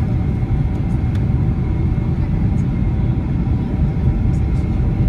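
Steady cabin noise of a Boeing 767-300 airliner: a constant low rumble of engines and airflow with a few faint, even engine tones above it.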